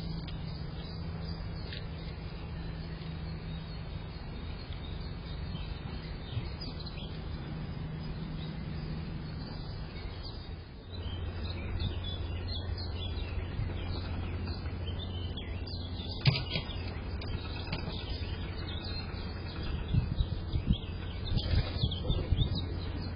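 Small garden birds chirping now and then over a steady low hum and background noise, with a few sharp knocks, the loudest about two-thirds of the way through and a cluster near the end.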